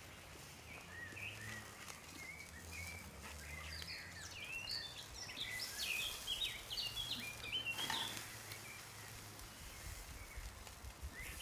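Birds chirping: many short, quick notes that grow busier towards the middle and stop about eight seconds in, over a faint low hum.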